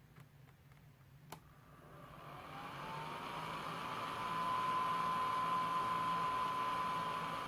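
Homemade bladeless fan (air multiplier) switched on with a click: its small motor-driven blower spins up, a whine rising in pitch and then levelling off into a steady tone over a rush of air.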